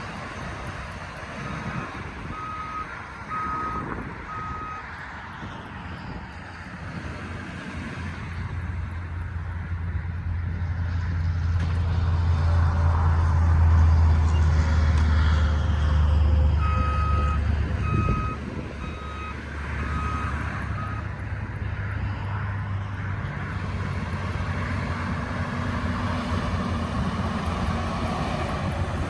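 2002 Blue Bird Micro Bird school bus running and manoeuvring, its engine's low drone growing louder in the middle and easing off after about 18 seconds. A reversing alarm beeps at an even pace in two spells: one near the start and one about two-thirds through, as the bus backs up.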